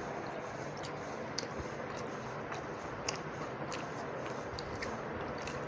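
Close-miked eating sounds: soft wet mouth clicks of chewing a mouthful of egg omelette, scattered about once a second over a steady hiss. Later on, a hand dips and squishes in the watery rice of pakhala.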